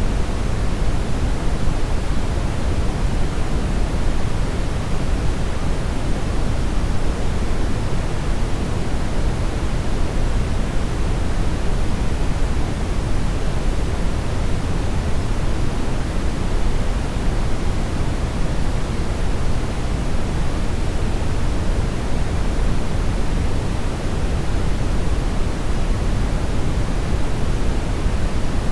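Steady brown noise: an even, unbroken rush, strongest in the low end and fading toward the highs.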